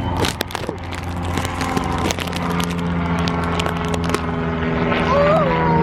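A motor running steadily, its hum stepping up in pitch about two seconds in, with scattered light clicks early on. A short high sliding cry comes near the end.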